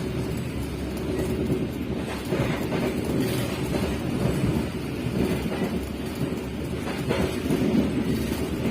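Steady rumble and wheel-on-rail noise of a moving passenger train, heard from inside the carriage.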